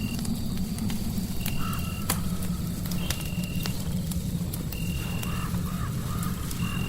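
Crackling fireplace: scattered sharp pops and clicks over a steady low rumble. A short, steady high tone repeats about every second and a half to two seconds, with faint wavering sounds in between.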